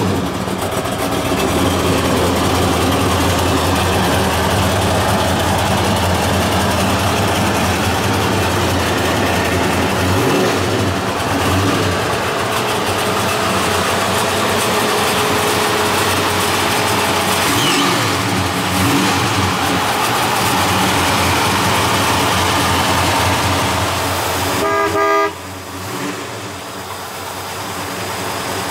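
Crate HEMI V8 in a '65 Dodge Coronet running at a steady, loud idle. About 25 seconds in there is a brief higher tone, then the sound drops sharply and stays quieter.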